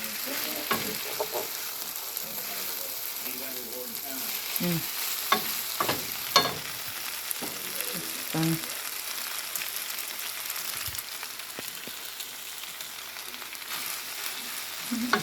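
Wheat pancit noodles sizzling in a frying pan while being stirred, with a steady hiss and scattered knocks and scrapes of the utensil against the pan. The stirring is busier in the first half and settles down after about nine seconds.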